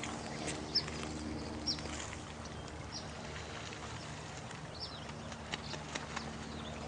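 Night nature ambience: a short, high call that falls in pitch repeats every second or two, with scattered faint clicks over a steady background hiss and low hum.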